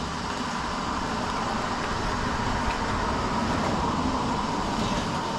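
Steady rush of water running into a container being filled to soak branches, continuous with a faint steady whine in it.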